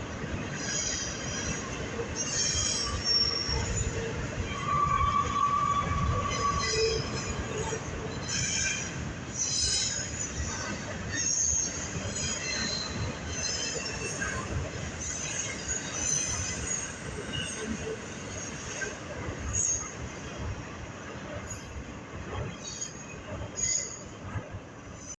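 Railroad cars rolling past with wheel rumble, and repeated short, high wheel squeals; a longer, lower squeal holds for about a second and a half around five seconds in.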